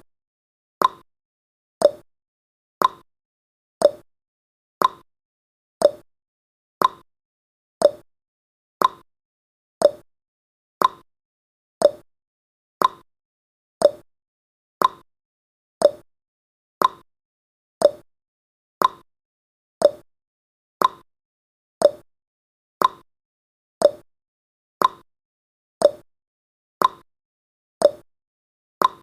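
Countdown timer's ticking sound effect: one short sharp tick each second, alternating between a higher and a lower tick like a clock's tick-tock.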